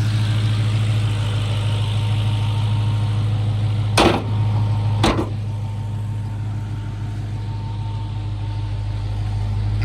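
Rebuilt Chrysler's newly installed crate engine idling steadily with a low, even drone, just after its first startup. Two sharp knocks cut through it about four and five seconds in.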